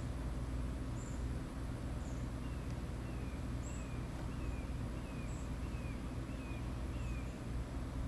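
Birds calling: a slow run of about eight short, falling notes, roughly two a second, starting a few seconds in, with thin high chirps repeating about every second and a half. A steady low rumble runs underneath.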